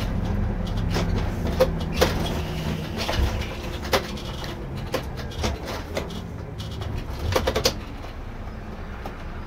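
Irisbus Recréo II coach's Iveco Cursor diesel idling with a steady low hum, with scattered sharp clicks and knocks and a short cooing call about seven seconds in.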